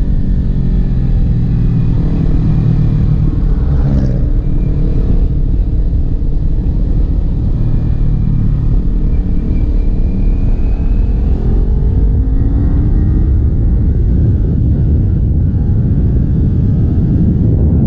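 Kawasaki Ninja 400's parallel-twin engine running under way, its note dropping in the first second, holding fairly steady, then climbing again about two-thirds of the way through as the throttle opens. A dense low rush of wind noise runs beneath it.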